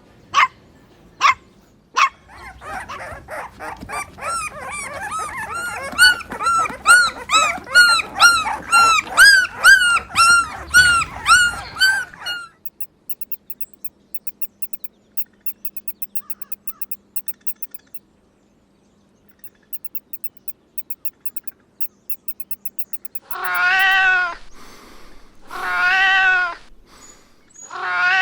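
A few short, sharp dog barks, then a long run of rapid high-pitched dog yelps, about two a second, that stops about twelve seconds in. After a quiet stretch, a cat meows three long, drawn-out times near the end.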